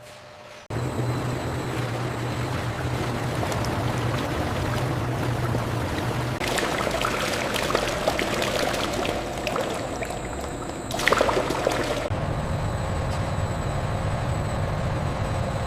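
Liquid pouring and flowing over a low, steady machine hum. The pour grows brighter about halfway through, with a short louder surge near the end.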